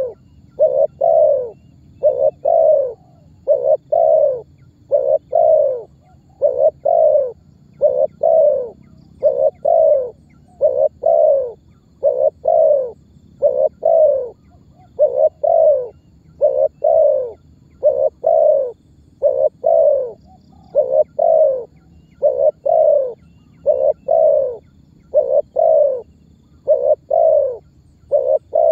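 Spotted dove (tekukur) cooing over and over: low coos, mostly in quick pairs, each pair following the last about every two seconds without a break.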